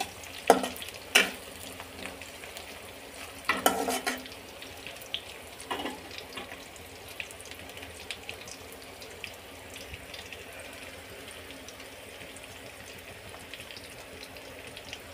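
Potatoes and sliced onions sizzling in oil in a kadai. A metal spatula scrapes and knocks against the pan a few times in the first six seconds, then the frying goes on steadily.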